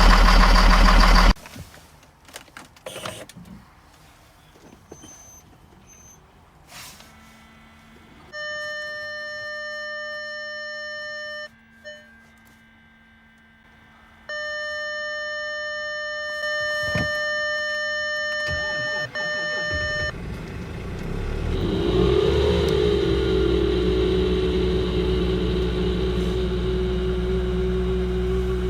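A running engine cuts off abruptly. After a quiet pause with a few clicks, a steady electronic warning tone sounds twice for a few seconds each. A diesel engine then starts in deep cold, its pitch swinging up and settling into a steady fast idle.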